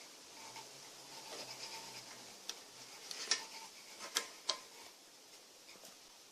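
A few light clicks and rubbing sounds, the sharpest about three, four and four and a half seconds in, over a faint hum during the first couple of seconds.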